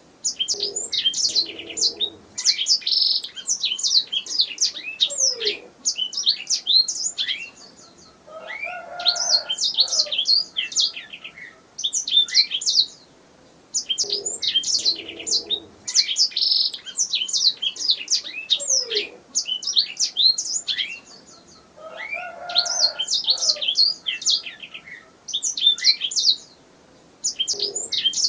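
Domestic canary singing: long phrases of rapid trills and chirps, broken by short pauses of about a second.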